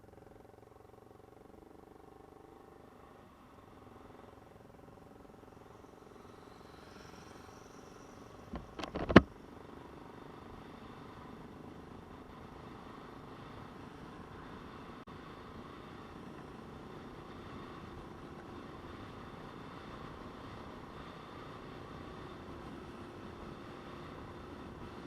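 Motorcycle engine running steadily, slowly getting louder, with one sharp, loud knock about nine seconds in.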